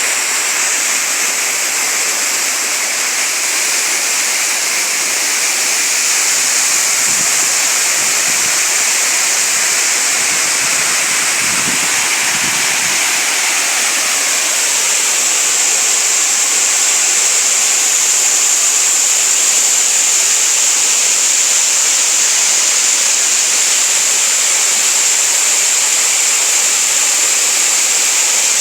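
Small waterfall: water falling and rushing steadily into a stream, a dense even hiss of splashing water.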